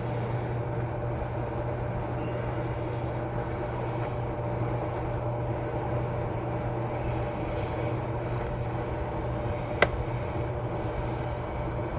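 A steady low mechanical hum with a faint steady tone above it, and one sharp click near the end.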